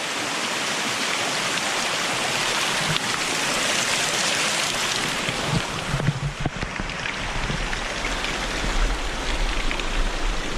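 Steady rush of a waterfall and stream, loudest in the first half and easing after about six seconds, when wind buffets the microphone and a few low knocks are heard.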